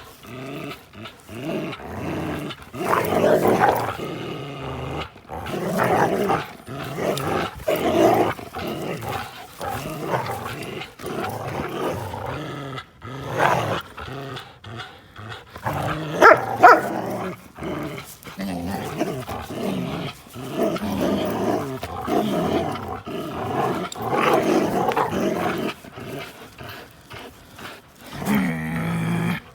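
Two dogs, a pit bull terrier and a Belgian Malinois cross, play-fighting, with growls coming in irregular bursts of a second or two and a few sharper peaks about halfway through.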